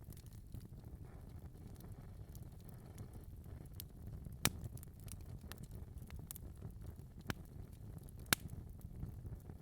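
Wood fire crackling in a fireplace: scattered small crackles over a steady low rumble of flames, with two sharper pops about four and a half and eight seconds in.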